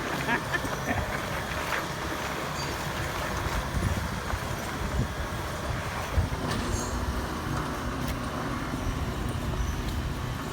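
Heavy vehicle engine running steadily, with a few knocks and clunks over it.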